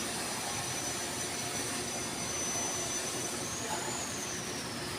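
A small electric motor running steadily with a whirring, rushing noise. A faint high whine in it rises a little past halfway and then slowly falls.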